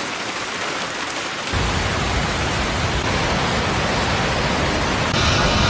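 Steady hiss of heavy rain. About one and a half seconds in it cuts abruptly to a louder, deeper rushing noise, which gets brighter again just after five seconds.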